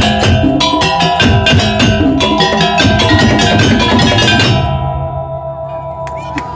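Madurese daul (tong-tong) ensemble playing fast, dense percussion with woodblock-like strikes over held melodic tones. The strikes stop about four and a half seconds in, and the held notes ring on more quietly as the piece ends.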